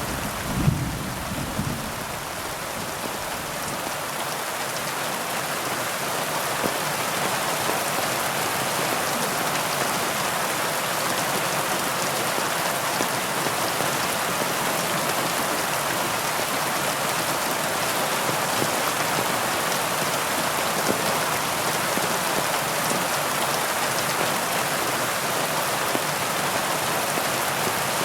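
Steady heavy rainfall, an even hiss of many drops, with a low rumble of thunder dying away in the first two seconds.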